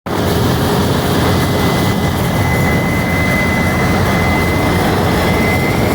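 Old drilling rig running: a loud, steady machinery din with a deep rumble and a thin, steady high whine over it.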